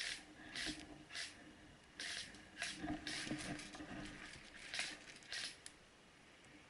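Irregular crunching and rustling of dry leaves and brush, one or two crunches a second, typical of someone walking through undergrowth; it goes quieter near the end.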